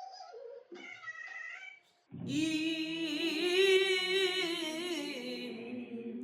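A woman singing pansori unaccompanied, a slightly nasal voice from a cold: two short phrases, then from about two seconds in a long held note with a wavering, shaking pitch that slides down to a lower note near the end.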